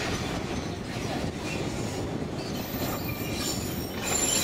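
Narrow-gauge train cars running along the track, heard from an open-sided car: a steady rumble of wheels on rails. About two-thirds of the way through, faint high wheel squeals join in.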